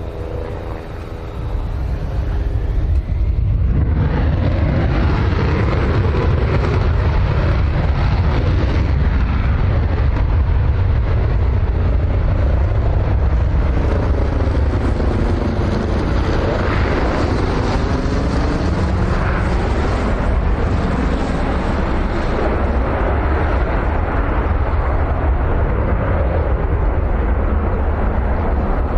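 F-35 fighter's single Pratt & Whitney F135 jet engine running in afterburner, building up over the first few seconds and then holding loud and steady, with a slowly sweeping, wavering tone as the jet passes.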